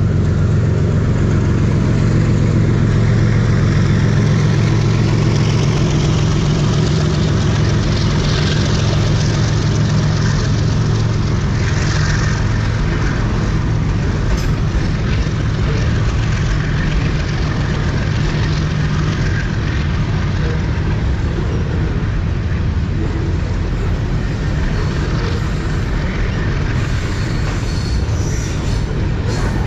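Diesel locomotives and a container freight train passing at speed. A steady low engine drone, strongest for the first two-thirds, gives way to the rumble and clatter of the container wagons' wheels on the rails.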